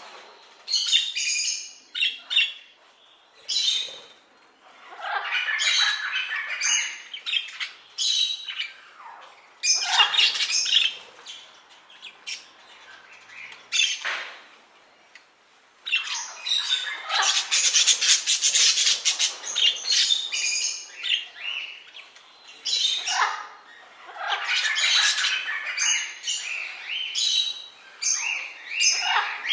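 Parrots squawking: a run of harsh, rasping calls, each lasting up to a couple of seconds, with short pauses between them.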